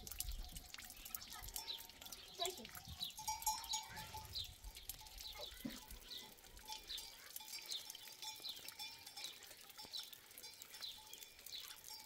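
Small birds chirping over and over, short high chirps that drop in pitch, repeating about every half second, with a few lower farm-animal calls mixed in.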